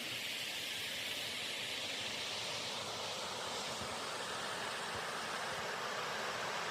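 Mountain waterfall rushing: a steady, even hiss of falling water.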